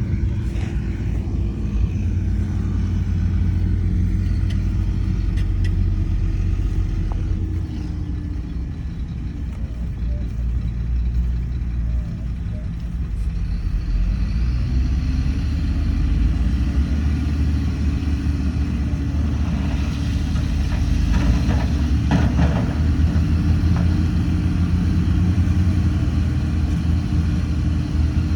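Heavy diesel engine of a bulldozer running under load. The revs sag about eight seconds in and climb back up a few seconds later. A few metallic knocks come near the end.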